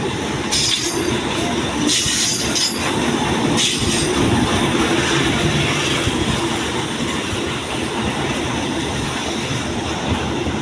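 A train running on the rails with a steady loud rumble, and several short bursts of high-pitched wheel squeal in the first few seconds.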